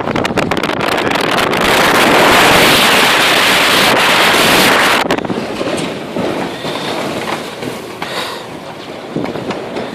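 Strong gusting wind of a dust storm buffeting the microphone. It crackles at first, swells into a loud rush for a few seconds, drops off abruptly about halfway through, and then goes on as a weaker, uneven rush.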